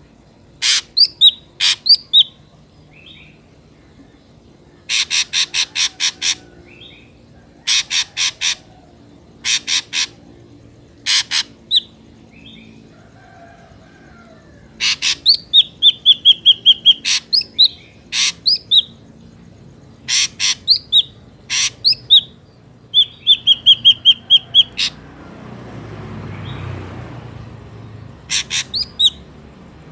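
Ashy drongo calling: runs of rapid harsh notes, each run lasting about half a second to a second and a half, alternating with short whistles that slide up and down. Near the end, a brief rushing noise swells and fades.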